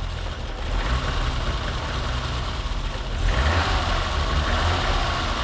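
BMW E30's M20 straight-six engine idling, running okay, with a throttle that the owner suspects is sticking. It grows louder about three seconds in.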